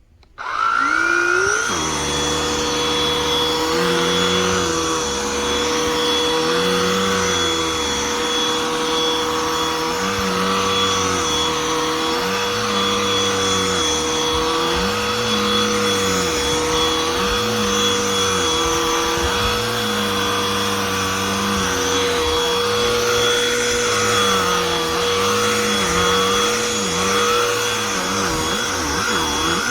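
Cordless handheld vacuum switched on, its motor spinning up with a rising whine, then running steadily with a high, constant whine, while the lower hum repeatedly dips and recovers as the nozzle is worked over the surface.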